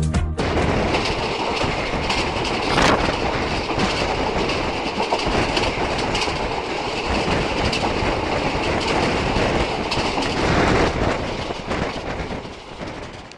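Indian passenger train coaches rolling past, the wheels clicking steadily over rail joints, fading away over the last couple of seconds as the last coach moves off.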